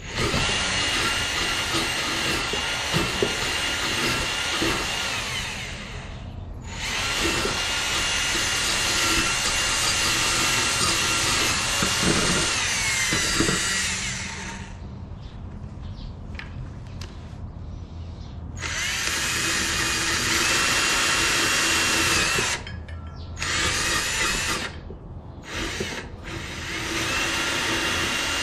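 Drill spinning a wire wheel against steel, brushing slag off a fresh flux-core weld. It runs in several bursts of a few seconds with short pauses, and the whine slides down in pitch as it spins down.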